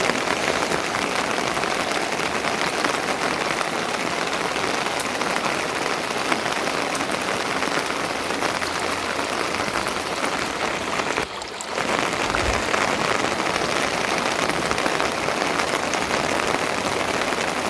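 Steady rain falling, an even hiss of drops that dips briefly about eleven seconds in.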